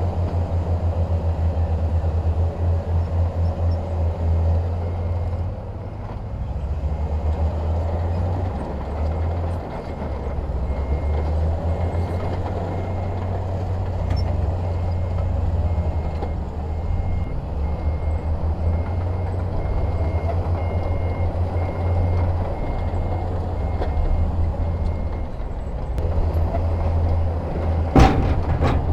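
Heavy diesel construction-machine engine running with a low, throbbing drone, while a reversing alarm beeps repeatedly through the middle stretch. A sharp bang near the end.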